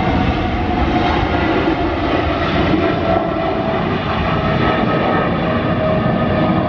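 Jet airliner's engines, loud and steady, with whining tones that slowly fall in pitch as the aircraft passes.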